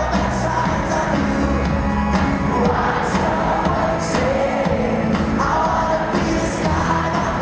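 Live band playing with a male lead singer, recorded by a handheld camera in the audience of a concert hall.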